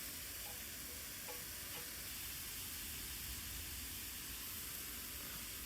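Vegetables and shimeji mushrooms frying in a pan with a steady sizzle, cooking down until soft.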